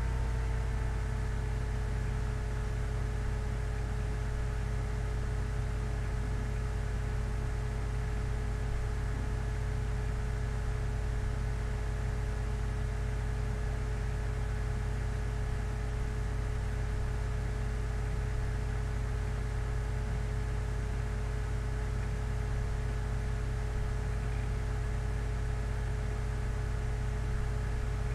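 Steady low hum with a thin, steady whining tone above it, unchanging throughout.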